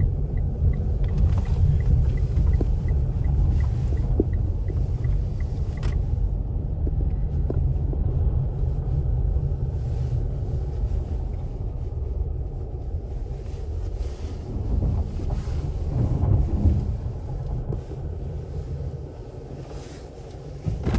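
Steady low road rumble inside a moving car's cabin. A light, evenly spaced ticking runs through the first several seconds.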